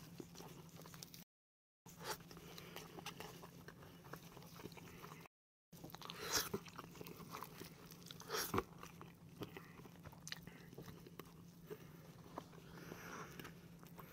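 Close-up mouth sounds of a person biting and chewing fried chicken: faint wet chewing with scattered small clicks and smacks, a couple of them louder about six and eight and a half seconds in.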